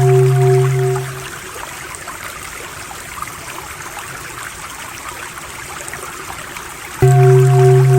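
Running stream water, a steady rushing trickle. A loud droning tone with a pulsing overtone fades out about a second in, leaving the water alone, and cuts back in suddenly near the end.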